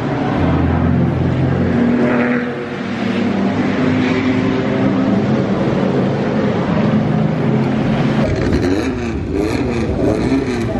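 Car engines running, their pitch holding and stepping between notes, then rising and falling repeatedly as they rev near the end.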